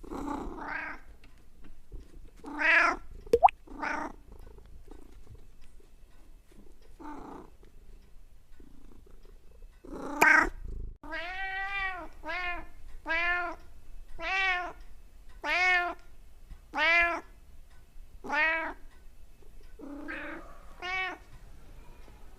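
Domestic cat meowing: a few scattered meows, then a run of about ten short meows, each rising and falling in pitch, roughly one a second. A single sharp click a few seconds in.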